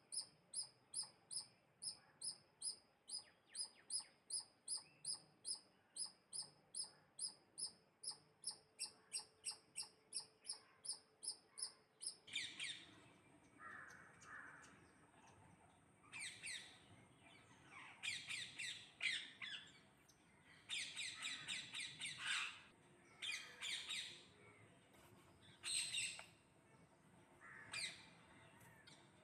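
A high, sharp call repeated evenly about three times a second, then, about twelve seconds in, birds squawking and chirping in irregular harsh bursts.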